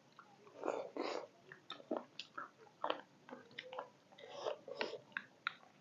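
A person chewing beef momos (steamed meat dumplings), with wet mouth smacks coming irregularly several times a second.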